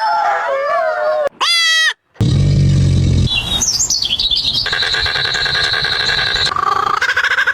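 A string of different bird and animal calls spliced one after another, each cutting off abruptly. A wavering pitched call gives way to a brief rapid warble, then a full silence about two seconds in, then a low buzzing call, high chirps, and a steady high whistling trill.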